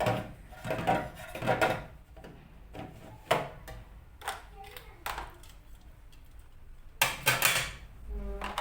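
Fridge shelves and drawers being handled and set back in place: a string of knocks and clatters, the busiest in the first two seconds and another burst about seven seconds in.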